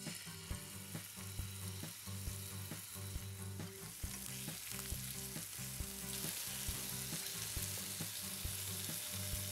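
Sea scallops searing in a hot frying pan over a gas flame: a steady sizzle that grows louder about six seconds in.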